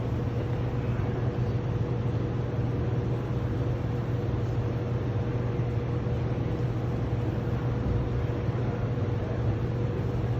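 Steady low mechanical hum, unchanging throughout, with a faint steady tone above it.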